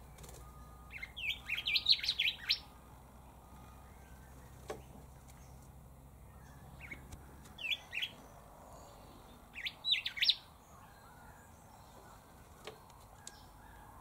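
Male rufous whistler singing three phrases of quick, high whistled notes: the first about a second in, the second near eight seconds and the third around ten seconds. A single sharp click falls in between.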